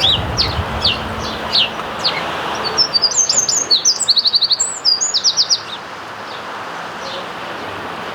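House sparrows chirping in a hedge: separate falling chirps at first, then a quick, dense run of higher chirps about three to five seconds in, tailing off to a few fainter ones.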